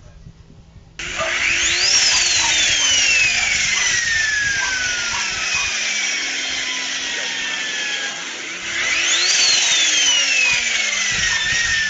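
Car engine and exhaust revved hard twice, each time the pitch shooting up and then falling away slowly over several seconds, with a loud, raspy exhaust note.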